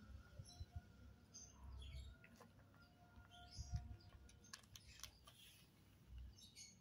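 Quiet scene with faint, scattered high chirps of small birds and soft bumps of kittens wrestling on a concrete floor, the loudest bump a little past halfway.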